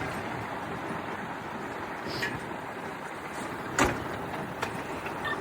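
Fire truck engine running steadily, with one sharp knock a little under four seconds in and a couple of lighter clicks.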